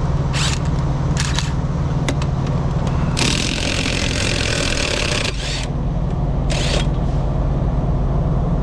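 An engine idles steadily underneath, while an air tool, likely an impact wrench loosening the truck's axle flange nuts, runs in short bursts: twice early on, then for about two and a half seconds midway, then once more briefly.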